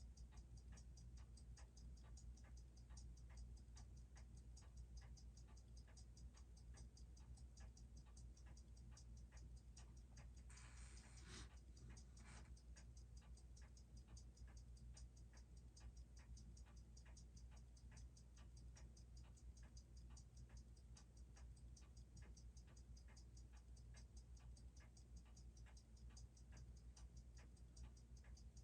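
Faint, steady ticking of a freshly serviced Seiko 6R15 automatic watch movement, beating six times a second, left running while its amplitude settles. A short rustling noise and a click come about a third of the way through.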